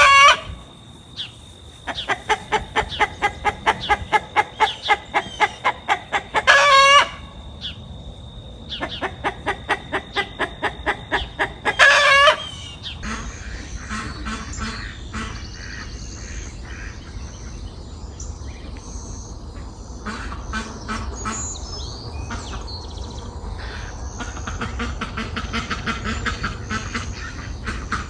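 Chicken cackling: runs of quick clucks, each ending in a loud squawk, three times in the first half, over a steady high whine. After that, quieter clucking and small birds chirping.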